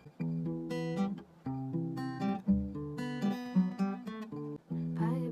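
Acoustic guitar played as a series of separate plucked notes and chords, each starting sharply, with short gaps between them.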